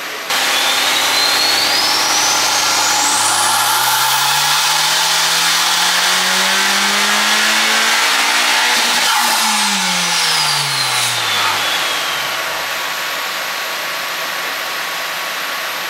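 Honda Civic Type R FK8's turbocharged four-cylinder on a chassis dyno pull. The engine revs climb smoothly for about six seconds, then fall away quickly as the run ends, with a high whine rising and falling along with them. A loud steady rushing noise starts suddenly at the outset and runs underneath.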